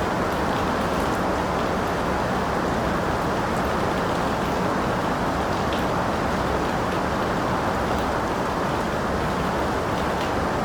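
Steady rain, a dense even hiss with faint scattered drop ticks.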